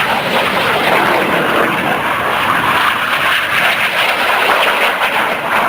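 BAE Hawk T1 jet trainers flying past, their turbofan engines making a loud, steady jet roar.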